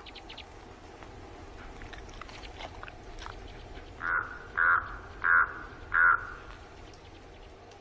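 Raven calling four times in a row, short harsh croaks about two-thirds of a second apart.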